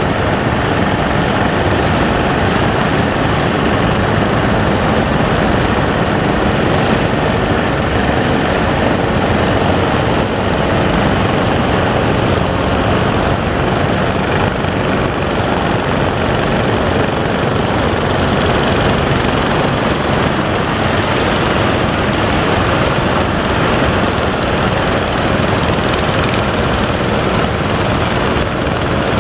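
Fishing boat engine running steadily, under a constant rushing noise.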